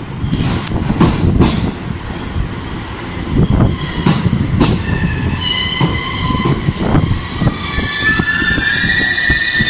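Passenger train running, a low rumble with scattered clicks and knocks from the wheels and rails. About halfway through, a high metallic whine of several tones rises in pitch and then holds steady near the end.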